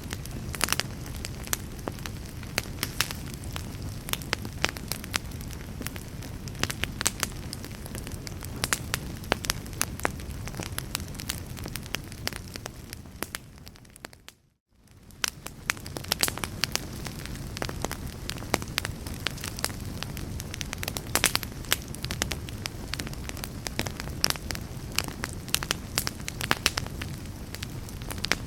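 Log fire burning, with a steady low rush and frequent sharp crackles and pops of burning wood. About halfway through, the sound fades briefly almost to silence and then fades back in.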